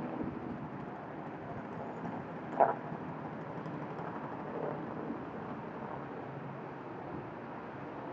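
Wind and rain noise buffeting the microphone in a steady rush, with one sharp thump about two and a half seconds in.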